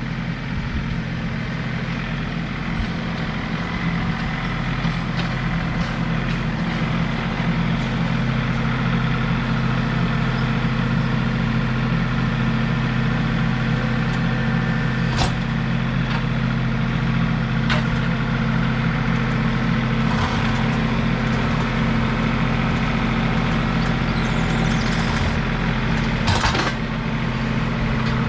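Tractor engine running steadily at a constant speed, with a few sharp knocks, the loudest near the end.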